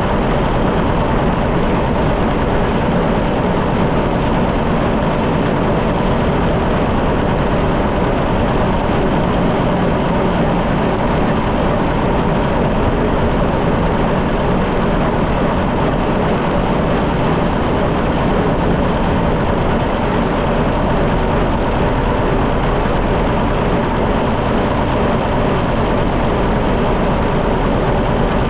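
John Deere 730 tractor's two-cylinder engine running steadily.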